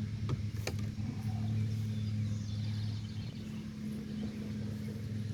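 Steady low hum of a honeybee colony around an opened hive, with two sharp knocks in the first second.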